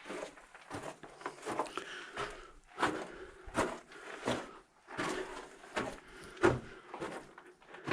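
Irregular knocks and scuffs, about one every half second or so, from someone clambering along a low, cramped mine passage, with boots and gear striking rock and timber.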